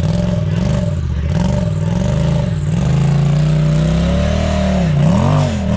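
Polaris RZR side-by-side engine revving, its pitch rising and falling repeatedly as the throttle is worked, with a longer, higher stretch in the middle and a brief dip near the end.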